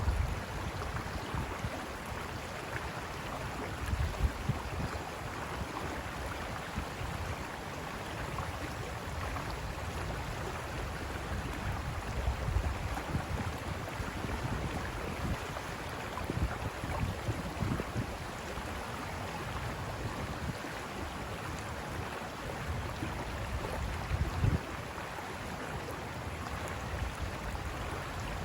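River water rushing steadily over rocks, with a few brief low surges rising above the constant flow.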